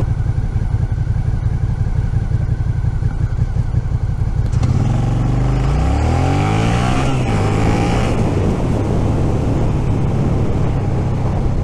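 Suzuki SV650's V-twin engine running at low revs while riding. About five seconds in it revs up under acceleration, its pitch rising for a couple of seconds before settling into a steady, higher note.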